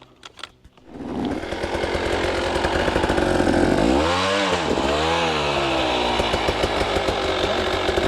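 Dirt bike engine starts up about a second in and runs steadily, with two quick revs that rise and fall in pitch near the middle.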